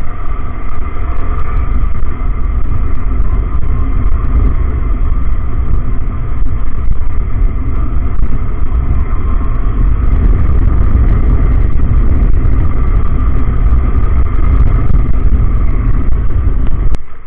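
Yamaha R15M motorcycle riding at a steady speed: its 155 cc single-cylinder engine running evenly under a heavy, steady low rumble of wind on the microphone.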